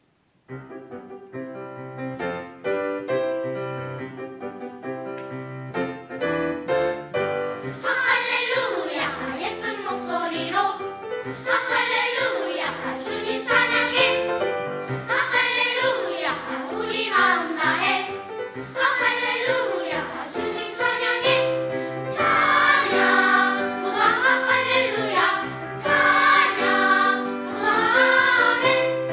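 Church choir singing a sacred anthem with instrumental accompaniment. The accompaniment plays alone at first, and the choir comes in about eight seconds in.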